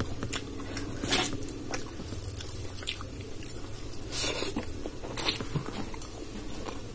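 Close-miked wet chewing and mouth clicks of someone eating dal and rice by hand, with a few louder smacks about a second in and around four and five seconds.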